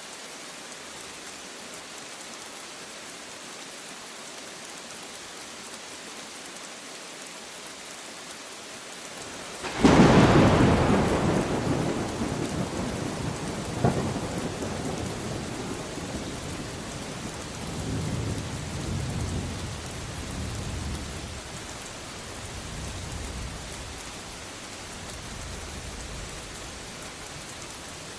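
Steady rain, then a sudden close thunderclap about ten seconds in, with a second sharp crack and rumbles rolling away over the next fifteen seconds or so.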